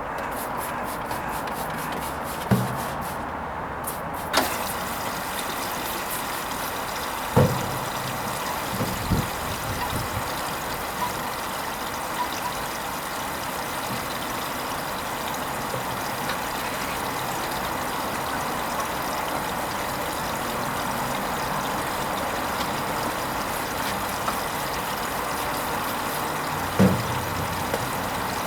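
Hoover Vision HVP16 washing machine partway through its silks cycle, water hissing steadily in as the drum fills, with a few short knocks. The hiss gets brighter about four seconds in.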